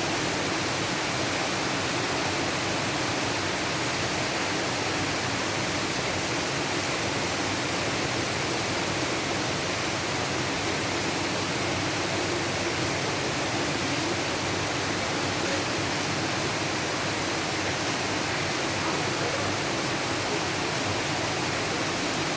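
Rain falling steadily, a dense even hiss that neither builds nor eases.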